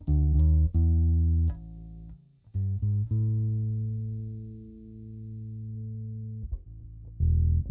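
Epiphone EB-0 short-scale electric bass played clean: a few quick plucked notes, then one long low note left ringing and slowly fading for about three seconds, then a fresh run of notes near the end. The brief gaps between notes are free of hum, the bass's electronics having been cleaned and a loose wire resoldered.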